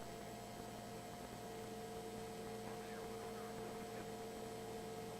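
Faint, steady electrical hum: a few steady tones over a low hiss, with one tone growing a little stronger about a second and a half in.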